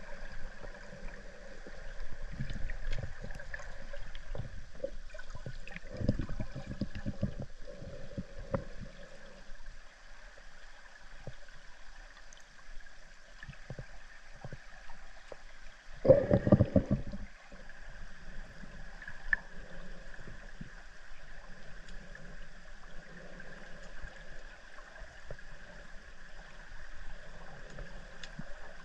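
River water heard underwater: a steady gurgling flow with a faint constant hum. Rough, rumbling bursts of bubbling come a couple of seconds in, again around six to nine seconds, and loudest about sixteen seconds in.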